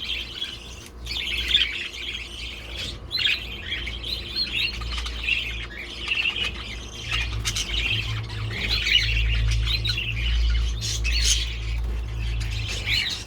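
Aviary birds calling constantly: the shrill squawking of young birds among many overlapping chirps, which he calls annoying. A low rumble runs under it, strongest in the second half.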